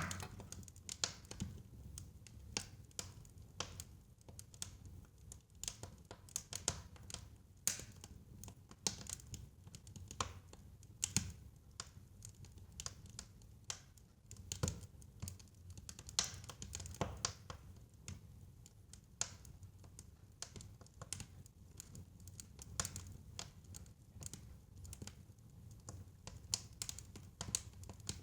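A fire crackling in a fireplace: irregular sharp snaps and pops, some louder than others, over a low steady rumble of the flames.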